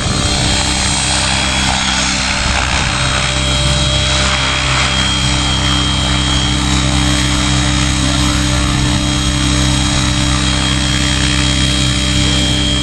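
Radio-control model helicopter running steadily in flight: a steady drone from the motor and rotors with a high, thin whine over it, its pitch shifting slightly a few seconds in.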